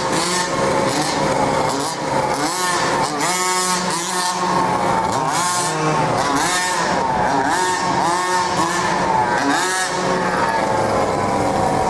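Small two-stroke petrol engines of large-scale radio-controlled cars revving up and dropping back again and again, as the cars are driven hard with repeated throttle bursts.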